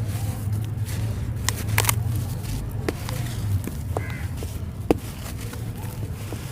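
Chunks of dry, gritty red sand clay being crumbled, giving scattered sharp crunches and crackles, the sharpest about five seconds in, over a steady low hum.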